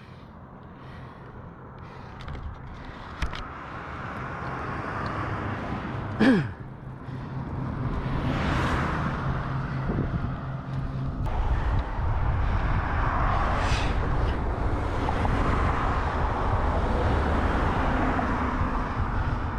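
Road traffic going by: a vehicle passes with a quick drop in pitch about six seconds in, and steady traffic noise builds and fills the second half.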